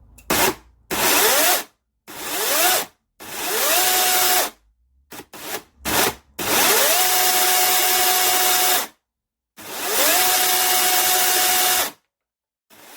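Bosch UniversalChain 18 cordless chainsaw's electric motor triggered in a series of short bursts, each rising in pitch as it spins up. It is then held twice for about two seconds at a steady whine, stopping cleanly each time.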